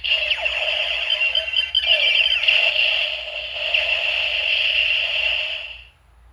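Electronic sound effect from a Kamen Rider Zi-O toy, played through its small built-in speaker: a steady, high ringing tone that fades out near the end.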